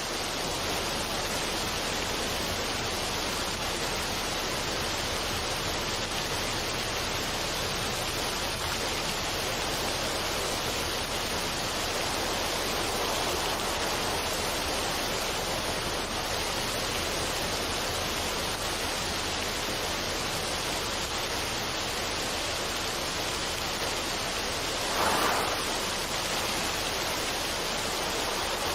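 Steady, even rushing noise like falling water, a relaxation noise soundscape, with one brief louder swell about 25 seconds in.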